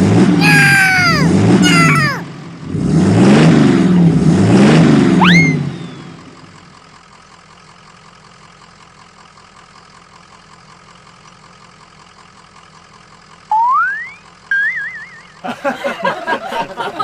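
Cartoon-style vehicle sound effects: for the first few seconds a loud engine-like revving with sliding tones, ending in a quick rising whistle. After a quiet stretch there is another rising whistle and a short warbling tone.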